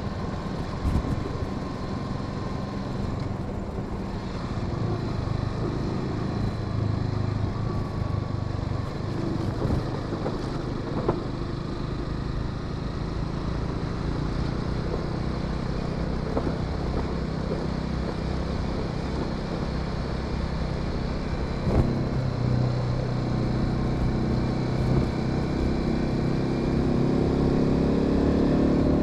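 Honda Sahara 300's single-cylinder engine running steadily under way, with a few short knocks. Near the end its pitch climbs as the bike accelerates.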